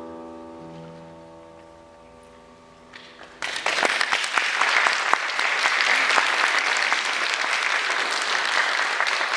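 A piano's final chord dies away, then audience applause breaks out about three and a half seconds in and carries on steadily.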